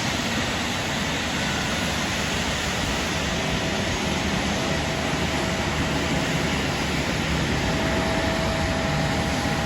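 Steady rushing noise of a KLM Boeing 737's jet engines running at low power as it taxis in to the gate, with a faint whine that grows a little stronger near the end.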